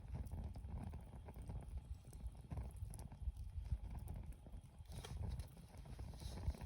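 Wood fire burning in a Snow Peak Takibi fire pit L, with a dense low rumble and many irregular crackles and pops.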